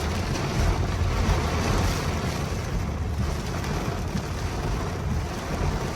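Steady rain and road noise inside a moving car's cabin: a constant hiss over a low rumble.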